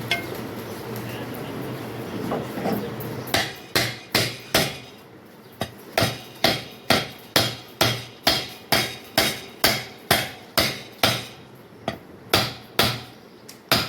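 Hammer blows struck over and over, about two a second, starting about three seconds in, over a steady background hum.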